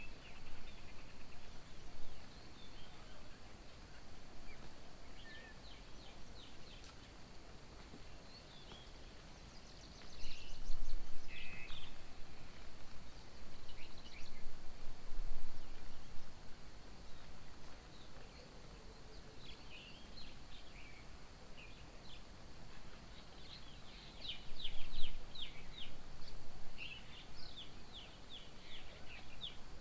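Birds chirping and calling intermittently at a garden bird table, with a louder burst of calls about a third of the way in and a quick run of repeated notes later on, over steady low background noise.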